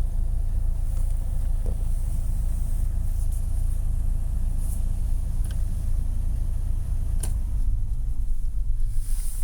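1985 Toyota Land Cruiser FJ60's 4.2-litre 2F inline-six petrol engine idling steadily while still cold during warm-up after a cold start. Near the end its rumble becomes more uneven, and there is a faint click about seven seconds in.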